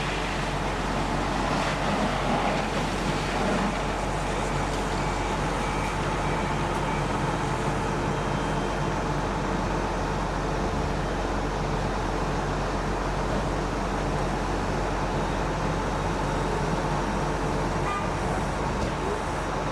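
Fire apparatus engines running steadily, a constant rumble and hum with an even wash of noise over it.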